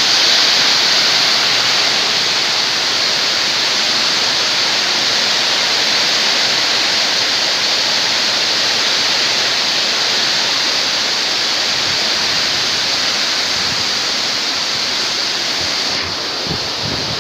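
Strong wind blowing hard, a loud steady rushing hiss that dips a little near the end.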